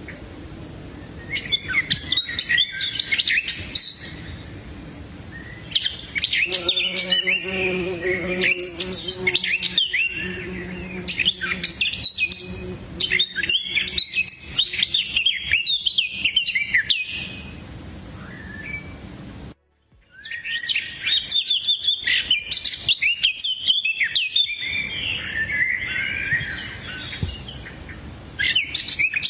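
Several birds chirping and calling in quick bursts of high, twittering notes, broken by short pauses. The sound drops out for a moment about two-thirds of the way through.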